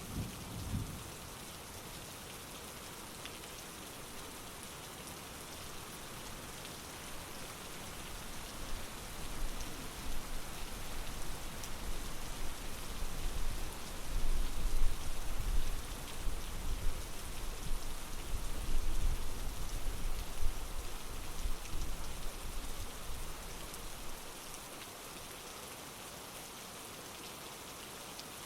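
Steady heavy rain with a long, low roll of thunder rumbling through the middle.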